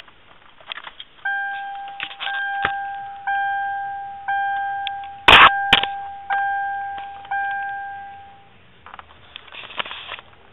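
Dashboard warning chime of a 1995 Mercury Grand Marquis, sounding about once a second, seven times, each ding fading away, with keys jangling and a sharp click near the middle.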